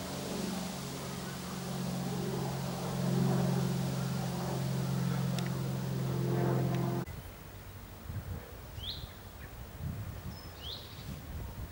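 A steady low hum with hiss that cuts off suddenly about seven seconds in. Then a bird calls twice, each a short sweeping note a couple of seconds apart.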